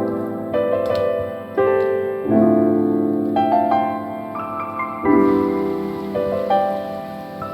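Background piano music: a slow, gentle melody over held chords, with notes struck every second or so and fading between them.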